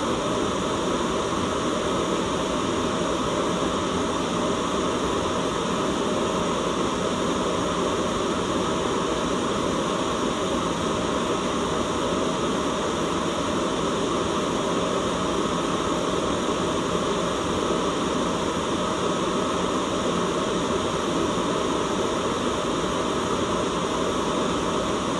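Steady white noise: an even, unchanging hiss across the whole range of pitch.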